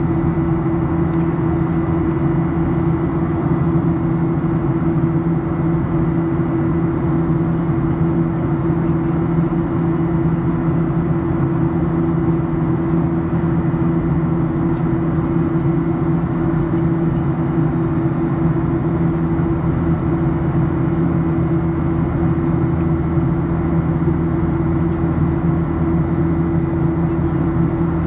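Cabin noise inside a Boeing 737-800 in flight: the CFM56-7B engines hum steadily, with a few fixed tones over a constant rush of air.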